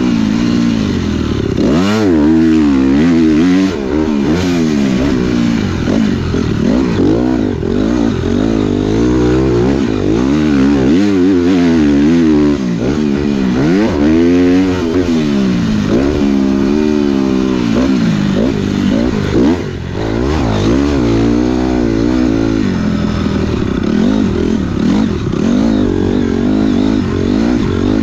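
Dirt bike engine being ridden on a motocross track, revving up and dropping back over and over as the throttle opens and closes and the gears change.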